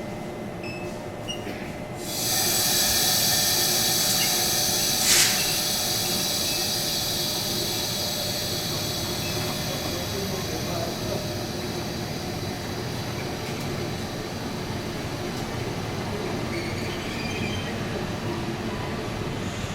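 Train running through the station on steel rails. The sound comes in suddenly about two seconds in as a loud hiss with high, steady wheel-squeal tones, with a short sharp click a few seconds later, then slowly fades.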